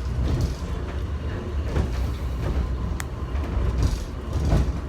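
Airport subway train running at speed, heard from inside the car: a steady low rumble with vibration and rattles, and one sharp click about three seconds in.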